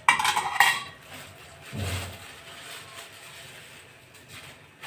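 Metal utensil clattering against a pan of frying onions: a ringing clatter in the first second, then a dull knock about two seconds in.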